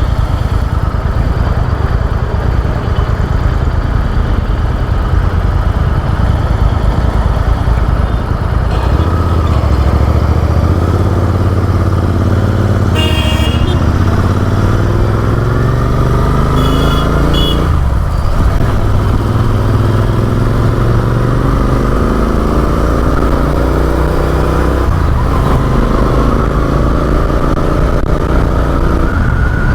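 Motorcycle engine accelerating, its pitch rising through one gear, dropping at a shift, then rising again, over the rumble of wind and traffic. Short vehicle horn toots sound twice in the middle.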